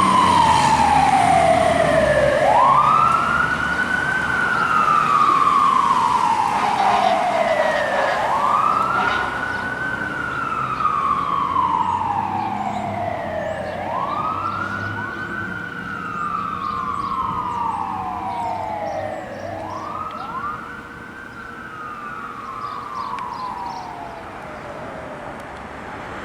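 Fire engine siren wailing: each cycle rises quickly, then falls slowly, repeating about every five and a half seconds and growing fainter, with low engine noise underneath early on.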